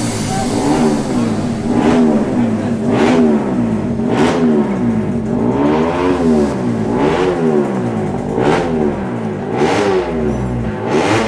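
Racing motorcycle engine revved again and again, its pitch climbing and dropping about every one and a half seconds, with short whooshes in between.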